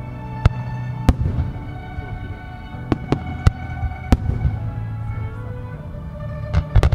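Aerial fireworks shells bursting with sharp bangs, about eight of them: a pair in the first second, a cluster around three to four seconds in, and two close together near the end. Music plays steadily underneath.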